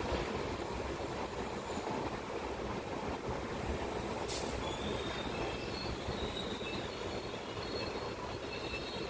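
Indian Railways passenger train rolling slowly into a station, heard from the coach door: a steady rumble of wheels and running gear. There is a single sharp click about four seconds in, followed by a faint, high-pitched squeal of wheels and brakes as the train slows.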